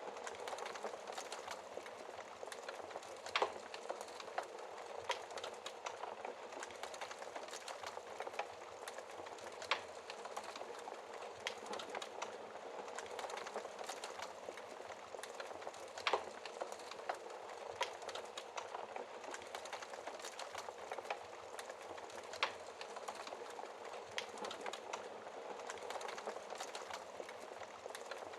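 Wood fire crackling steadily in a fireplace, with many small ticks and four sharper, louder pops about six seconds apart.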